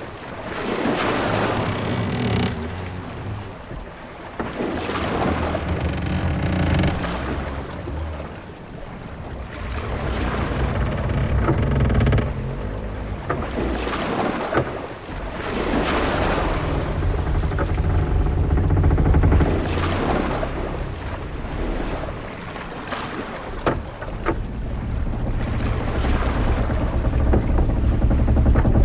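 Sailing-ship-at-sea ambience: waves surging and washing against a hull in slow swells every few seconds, over a steady low wind rumble. A drawn-out creak, like ship's timber, sounds near the start.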